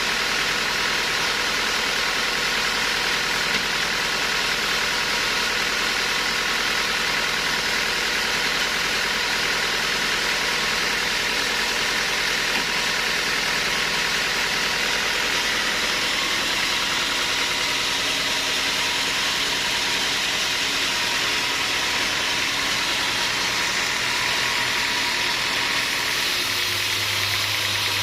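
Sawmill machinery running steadily: a continuous mechanical hiss with a few steady tones, with a low hum coming in near the end.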